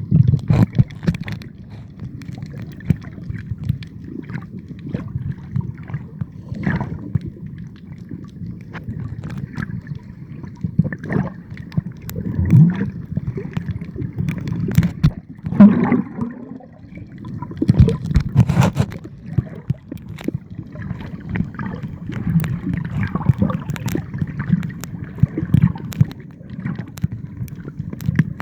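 Water sloshing and gurgling in a low, churning rumble, broken by irregular knocks and splashes.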